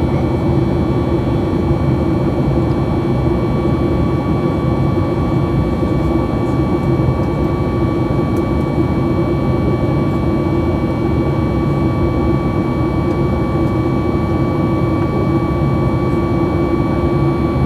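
Cabin noise of a Boeing 737 MAX 8 in the climb: a steady, even rush of airflow and CFM LEAP-1B engines, with a few constant whining tones over it.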